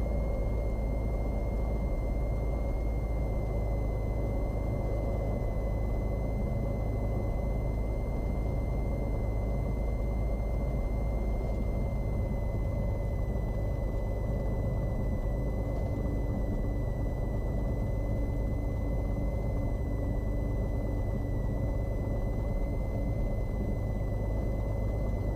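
Cessna 182's piston engine idling steadily in the cabin, a low drone with a thin steady whine above it, as the plane holds in position on the runway waiting for takeoff clearance.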